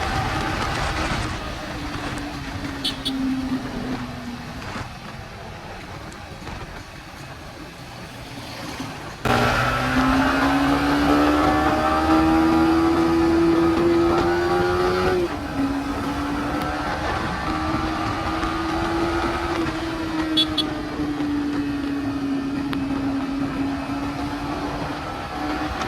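Yamaha MT-15's 155 cc single-cylinder engine running with the exhaust removed, held at fairly steady revs that slowly rise and fall. It gets much louder about nine seconds in and drops back about six seconds later.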